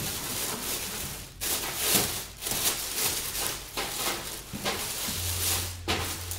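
Plastic bag rustling and crinkling in uneven surges as it is handled and opened.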